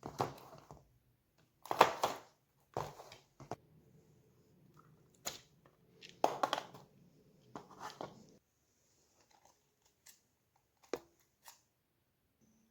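Hands working on small parts: a run of irregular short scrapes and rustles, the loudest about two seconds and six seconds in, then a few sharp clicks near the end.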